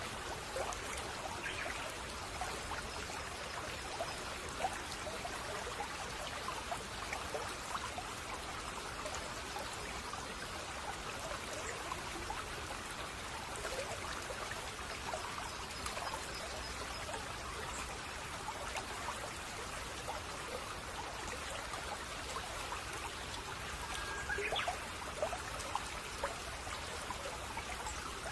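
Small stream babbling and trickling steadily over stones. A few brief, faint bird chirps come in, the clearest near the end.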